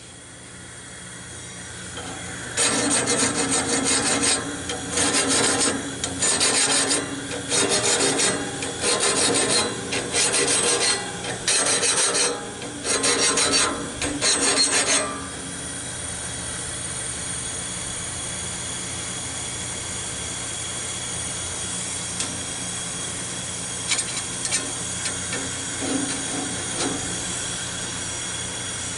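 Grinder sharpening a sawmill band blade: about nine short grinding passes, roughly one every 1.3 seconds, each one cutting a tooth face flat and smooth. About halfway through the grinding stops and only a steadier running sound remains, with a few light clicks.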